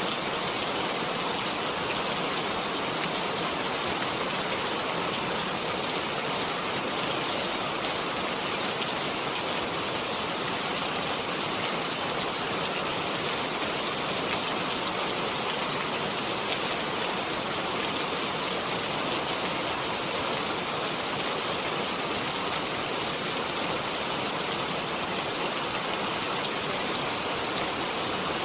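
Steady rain: an even hiss of falling rain with fine drops pattering on a surface, unchanging throughout.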